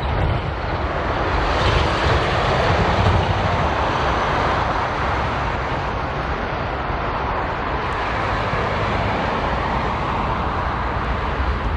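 Jet airliner's engines running at takeoff thrust during departure: a steady, loud rushing rumble.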